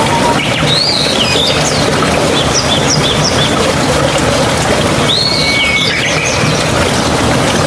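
Steady rushing of flowing water, like a mountain stream, with birds calling over it in two bouts of quick chirps, the first about half a second in and the second about five seconds in.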